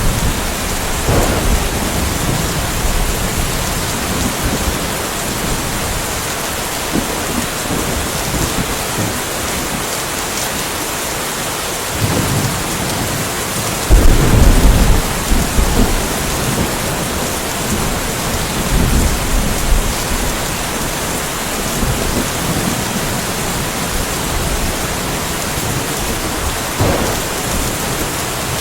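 Steady rain hissing, with rolls of thunder rumbling underneath; the loudest thunder comes in suddenly about halfway through and rumbles for a few seconds.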